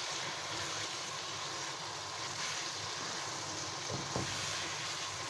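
Cubed potatoes, chicken and fenugreek frying in a pan: a steady sizzle, with the spatula scraping through a couple of times about four seconds in.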